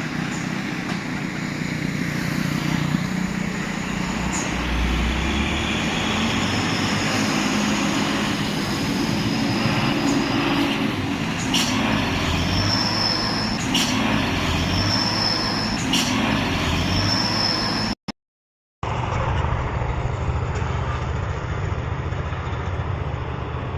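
Diesel engine of a Hino fuel tanker truck roaring as it labours up a steep hill, its low pitch shifting slowly. A short high whistle recurs several times in the second half, along with a few sharp clicks. The sound drops out briefly about three quarters through, then the engine resumes.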